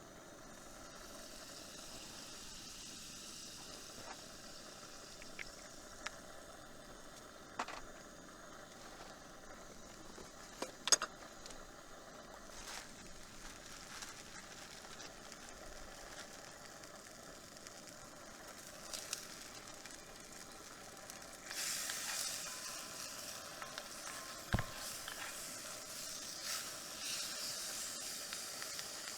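Food frying with a sizzle that starts up loudly about two-thirds of the way through, after a stretch of low hiss broken by a few sharp clicks or crackles. There is a single dull knock near the end.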